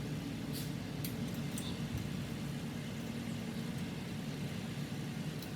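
Steady low background hum, with a few faint clicks about half a second to a second and a half in.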